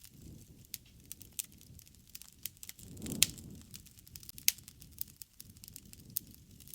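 Wood fire crackling, with irregular sharp pops over a low, soft rush of flame that swells around the middle; the loudest pop comes just after that swell.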